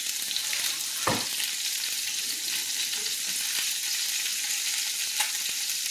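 Chicken and diced potatoes sizzling as they fry in hot oil and butter in pans on the stove: a steady hiss, with a single thud about a second in.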